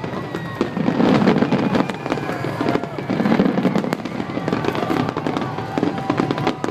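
Aerial fireworks display going off: heavy booms about a second and three seconds in, with dense crackling pops throughout.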